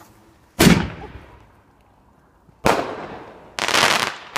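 Garden fireworks going off: a loud bang about half a second in that fades away, a second bang about two seconds later, then a denser burst near the end that ends in a sharp crack.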